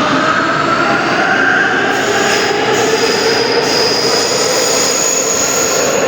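A metro train's electric traction motors whining in several tones that glide slowly upward as the train gathers speed, over the steady rumble of the running train. A thin high tone joins about two seconds in.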